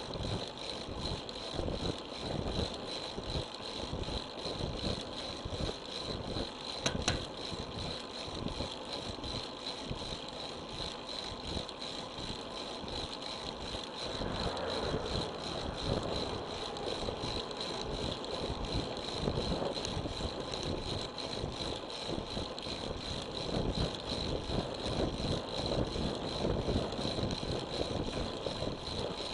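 Road bicycle riding along, heard through a bike-mounted action camera: wind buffeting the microphone over tyre and road rumble, with rattling. A sharp click comes about seven seconds in, and a swell of noise around the middle.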